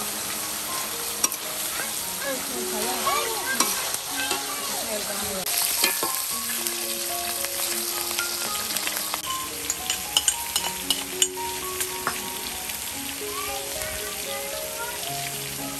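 Food sizzling in a hot wok while a metal spatula stirs it, scraping and clicking against the pan.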